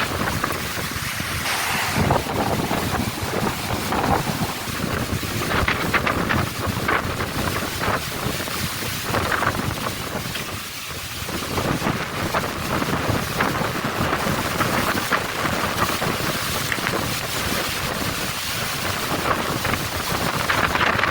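Strong gusty wind buffeting the microphone, rising and falling in gusts, with a brief lull about halfway through.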